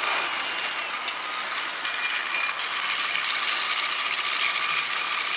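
Train running on the rails: a steady noise of wheels and track, with faint high squealing tones held throughout.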